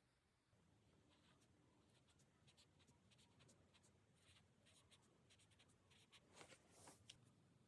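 Faint scratching of stationery on a paper diary page: a run of short strokes, with two louder ones near the end.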